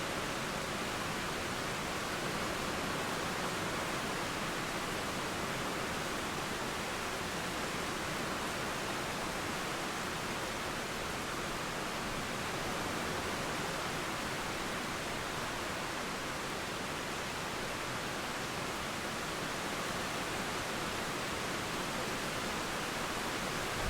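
Steady rain falling, blended with a flowing river: an even, unbroken hiss with no separate drops or thunder standing out.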